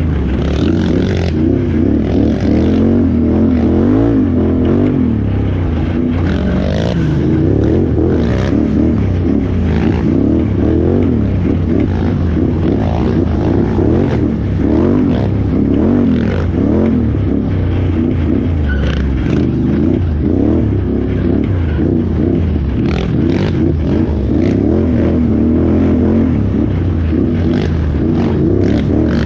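Can-Am Renegade XXC 1000R ATV's V-twin engine revving up and down continuously under race load, with scattered knocks and clatter from the machine going over rough ground.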